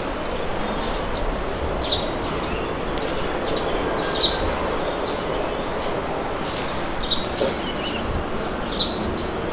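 Wind blowing in a steady rush, with birds chirping briefly a few times over it.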